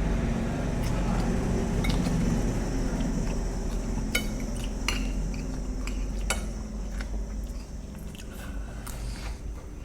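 Metal spoons and forks clinking against plates while eating, with several sharp clinks from about four seconds in. Underneath is a steady low rumble that fades after about seven seconds.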